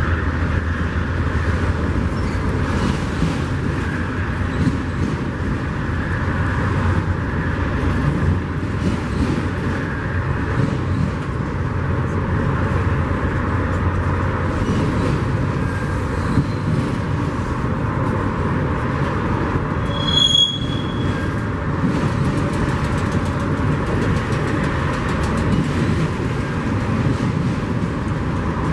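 Train rolling through a grade crossing: a steady rumble of railcars on the rails. About twenty seconds in there is one brief, high-pitched squeal.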